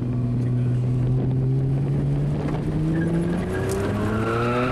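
Car engine heard from inside the cabin, running steadily and then rising in pitch from about halfway through as the driver accelerates while practising drifting.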